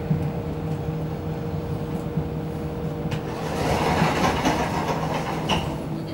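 Regional express train running, heard from inside the passenger carriage: a steady low rumble with a held tone. About three and a half seconds in, a louder rushing noise swells for about two seconds and then fades.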